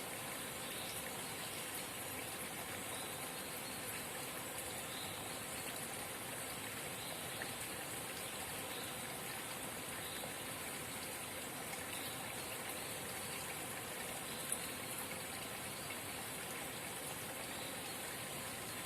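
Forest spring babbling steadily, an even rush of running water, with one faint click late on.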